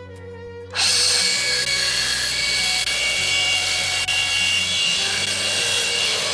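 A power tool sanding or grinding with a steady whine, starting abruptly just under a second in and running steadily. Soft background music plays underneath.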